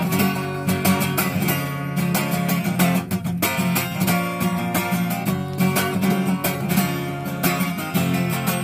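Acoustic guitar strummed in a steady rhythm, chords ringing with no singing over them: an instrumental passage between verses of the song.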